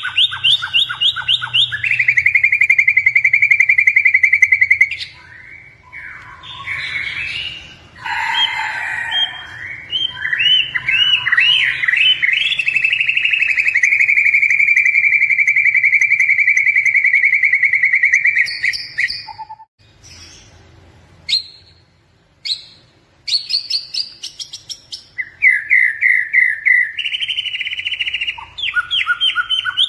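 White-rumped shama singing in full voice: fast runs of repeated notes and long rapid trills, with a short lull of scattered single notes about two-thirds of the way through.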